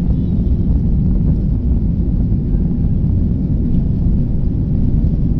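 Boeing 737-800 jet engines and airframe making a loud, steady, deep rumble.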